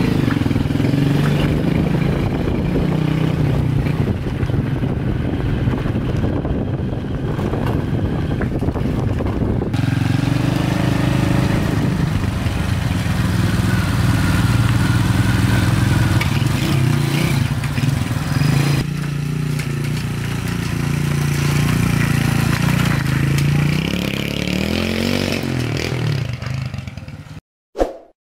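Single-cylinder four-stroke engine of a freshly restored Honda Win 100 motorcycle running steadily, its note changing abruptly twice, then cutting off near the end.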